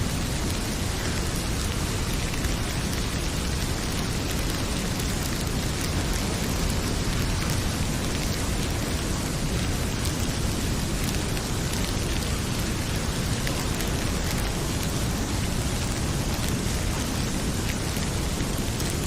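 Heavy rain pouring steadily, with the scattered pops of a crackling wood fire in a fireplace.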